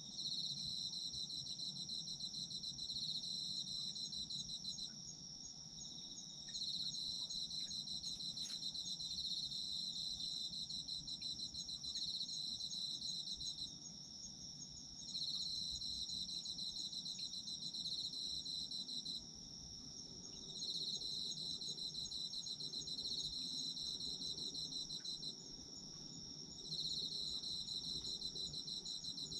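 Autumn crickets calling. One high, steady trill runs on without a break. A second, pulsed trill just below it sounds in stretches of several seconds, separated by short pauses of about a second and a half.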